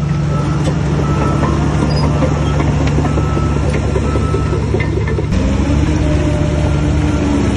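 Heavy diesel engine of construction machinery running steadily, its tone shifting about five seconds in.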